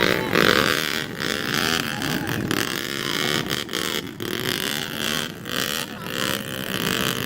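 Dirt bike engine running and revving, the throttle opening and closing every second or so.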